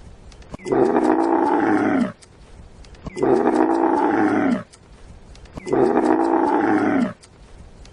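An animal calling loudly three times, each call about a second and a half long, evenly spaced, and dropping in pitch at the end.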